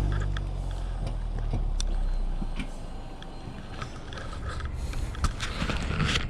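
Harley-Davidson Sportster's V-twin engine starting and running at a low, steady idle. The engine note eases off about two and a half seconds in, and scattered clicks and knocks follow near the end.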